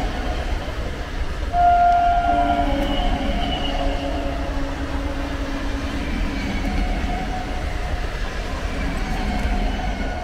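EMU local train passing close by, a steady rumble of coaches running on the rails, with a brief high tone about one and a half seconds in.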